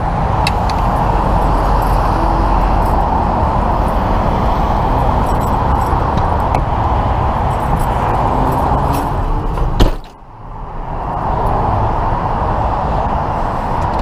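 Steady rush of freeway traffic going past. Just before ten seconds in there is a sharp click, then the sound drops away suddenly and builds back up over a second or two.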